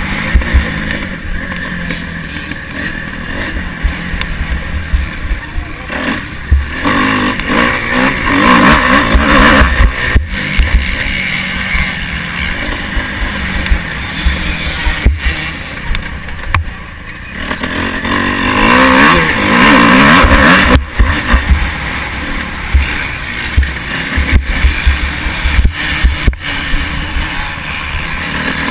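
Motocross motorcycle engine at race pace, heard from a camera mounted on the bike or rider, revving up and down repeatedly as it is ridden through the course, with frequent sharp knocks.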